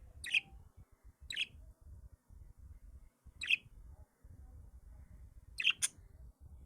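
A bird giving short, sharp chirps: four calls spaced a second or two apart, the last a quick double chirp.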